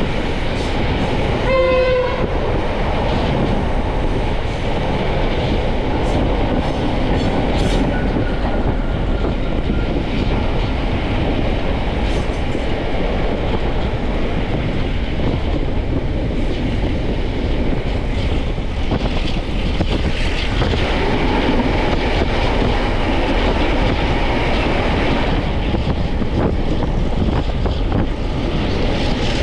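Heritage BCE railway carriage running along the track, a steady noise of wheels and rails heard from inside the carriage. A short train horn sounds about two seconds in.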